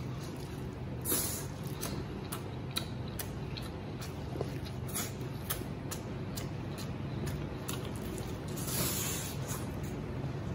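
Close-up mouth sounds of a man eating a braised chicken drumstick: wet chewing with many small lip-smacks and clicks, and two short hissing sucks of air, one about a second in and a longer one near the end.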